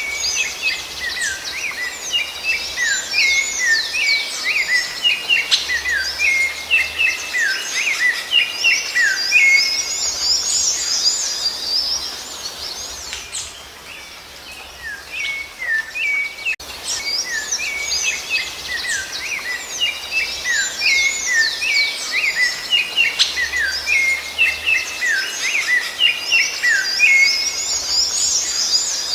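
Songbirds singing: a dense stream of quick chirps and whistles that thins out for a few seconds around the middle, then starts again.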